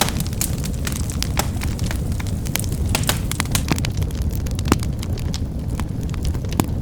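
Wood fire crackling, with a steady low rumble of flames and frequent sharp, irregular pops and snaps, a louder pop about two-thirds of the way through.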